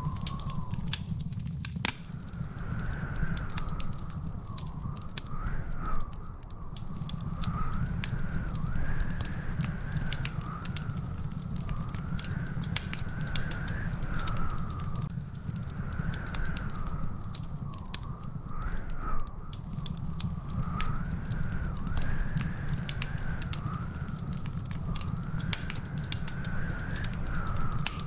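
Wood fire in a fireplace crackling, with many small sharp pops over a steady low rumble. A faint high tone wavers slowly up and down throughout.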